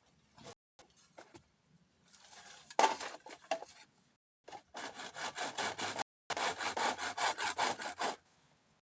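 Saw cutting through bamboo in quick back-and-forth strokes. It starts with a few uneven strokes, then settles into two steady runs of about five strokes a second with a brief pause between them.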